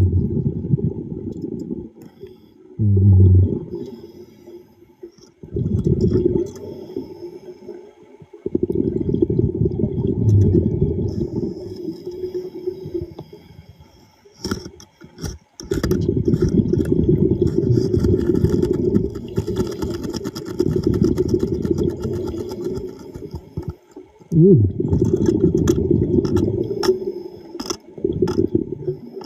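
Underwater breathing of a diver: long rushes of exhaled bubbles every few seconds, with short gaps between them, and a few brief muffled hums near the start and about three-quarters of the way through.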